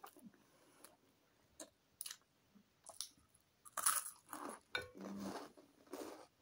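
A person biting into and chewing a chicken baguette close to the microphone: a few faint mouth clicks, then from about four seconds in a run of loud chewing and crunching of the bread.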